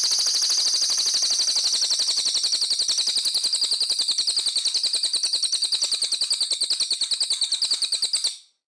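Songbird giving a long, fast, harsh trill of evenly repeated notes, a rough rapid-fire 'tembakan' phrase of the kind used as master song for cage birds. It cuts off sharply near the end.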